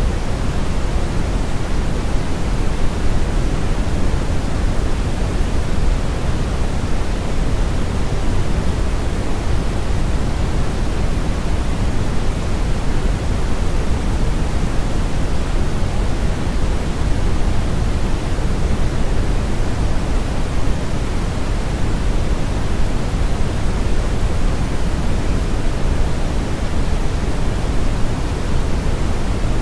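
Steady brown noise: a continuous, even rushing hiss weighted heavily toward the low end, with the highs rolled off.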